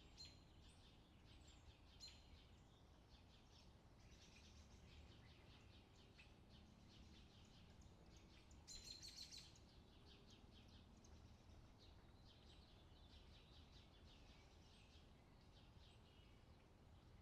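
Faint outdoor summer ambience of birds chirping steadily, with a brief, louder run of quick chirps about nine seconds in.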